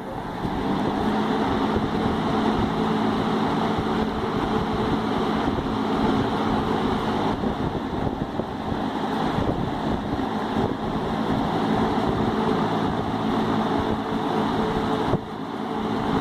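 1970s Champion three-speed box fan with a Westinghouse motor and three-rivet blade running on high: a steady rush of air over a low motor hum, coming up to full speed at the start.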